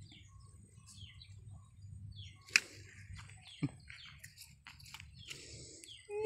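Birds chirping in short scattered calls over low rumbling handling noise, with a sharp click about two and a half seconds in and a smaller one about a second later.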